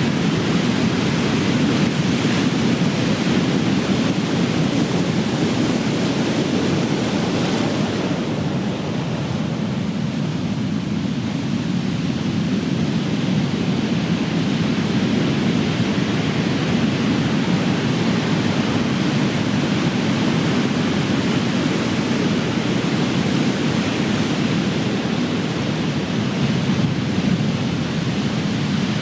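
Big ocean waves crashing and surf rushing in a continuous roar of noise; a fuller, hissier wash fades about eight seconds in, then the surf builds again.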